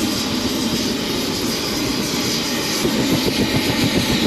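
Helicopter in flight: steady engine and rotor noise with a fast, low, even pulsing.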